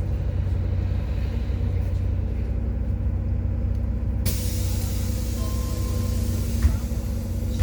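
MAZ-103 city bus heard from inside: the engine drones steadily, then about four seconds in a loud hiss of compressed air from the bus's pneumatic system starts suddenly and runs for about three seconds before cutting off.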